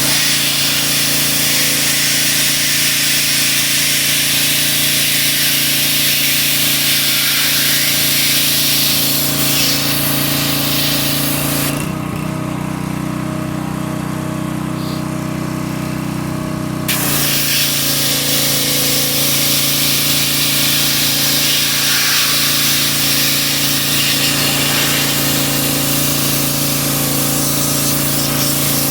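Small engine running steadily while a high-pressure spray hisses loudly; the spray stops about twelve seconds in and starts again about five seconds later while the engine keeps running.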